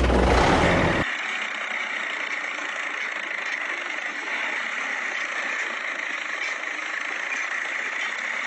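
Steady running of a small motor in a homemade mini tractor model, after louder music cuts off about a second in.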